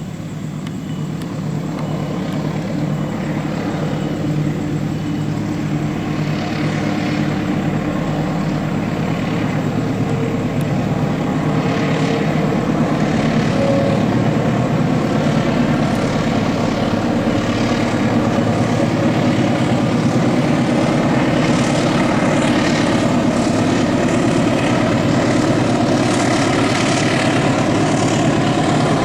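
Diesel-electric locomotive engine running hard under load as the train climbs a grade, growing louder as it approaches over the first dozen seconds, then holding a steady, heavy drone.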